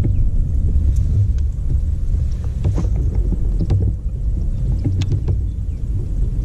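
Kayak on open water: a steady low rumble of water and wind noise, with a few light knocks.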